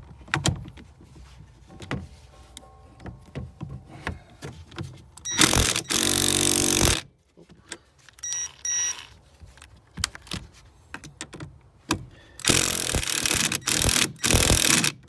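Ratchet wrench loosening the negative (ground) battery terminal clamp, in two spells of fast ratcheting clicks, with scattered metallic clicks and knocks of tool handling in between.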